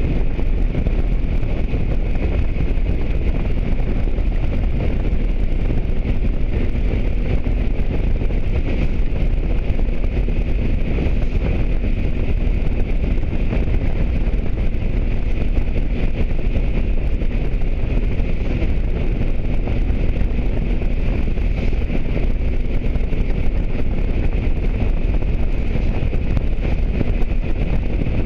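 Motorcycle riding at a steady speed: wind rushing over the microphone, with the engine running steadily beneath it.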